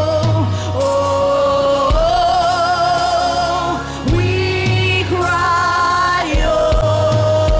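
Gospel worship music: a voice holds long wavering notes over sustained chords and a low bass, the chord changing about every two seconds.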